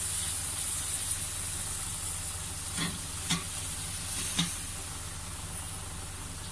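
Green mussels sizzling in a wok while a metal spatula stirs them, with three short clacks around the middle.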